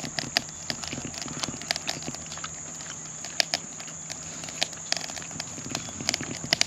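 Close-up chewing: wet mouth clicks and lip smacks, irregular and several a second, as a piece of smoked spiny lobster meat is eaten. A steady high-pitched whine sits behind it.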